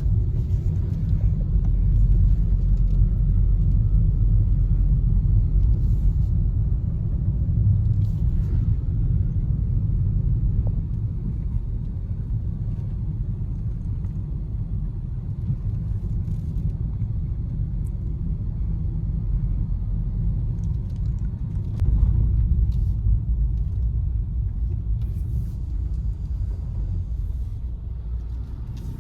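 Car driving along a road: a steady low rumble that gets suddenly louder for a while about three quarters of the way through.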